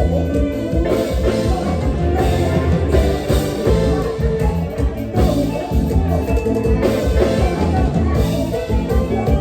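Live Isan mor lam band playing an upbeat toei la dance tune, with a prominent bass line and a steady beat.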